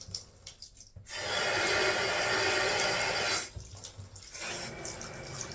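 Water running from a freshly rebuilt Delta Roma bathtub faucet, turned on to test it for leaks: a short rush, then a loud steady gush for about two seconds that stops fairly suddenly, leaving a softer flow near the end.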